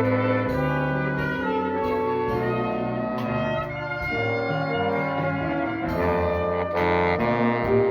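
Jazz band playing held chords, with the brass to the fore and a swell about seven seconds in; it is the band's first read-through of the piece.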